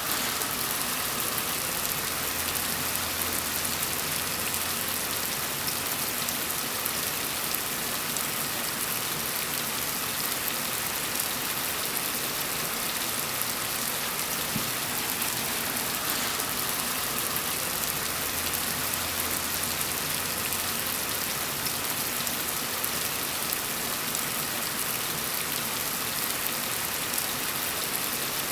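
Steady rain falling, an even hiss with no break, with a faint low hum that comes in near the start and again past the middle.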